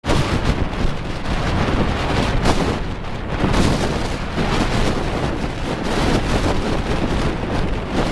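Strong gusty wind buffeting the camera's microphone: a loud, continuous rumbling roar that swells and eases with the gusts.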